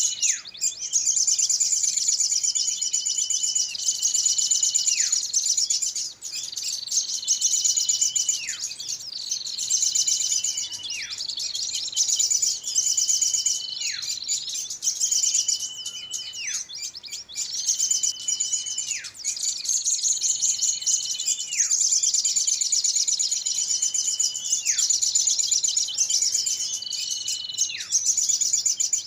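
Bird-lure recording of small birds calling. A dense, very high, fast chittering trill runs on without pause. Over it, about every two and a half seconds, comes the same call: a short held whistle that swoops sharply down in pitch.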